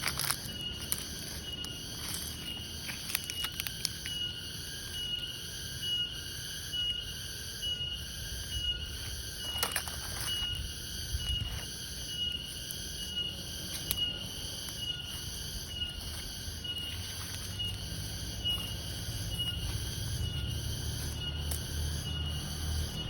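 A cricket chirping over and over at an even pace, with a few sharp clicks and ticks now and then, the loudest about ten seconds in.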